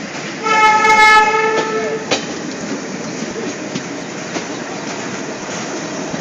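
Indian diesel locomotive sounding one steady horn blast of about a second and a half, followed by the continuous rumble and wheel clatter of a train running over the tracks.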